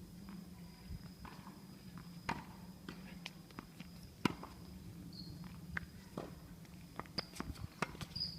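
Scattered sharp taps and knocks on a court, footsteps and a ball bouncing, the loudest knock about four seconds in, over a steady low hum.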